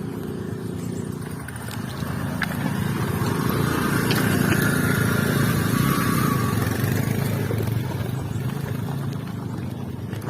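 Motorcycle engine running on the move. It grows louder about two seconds in and eases off near the end.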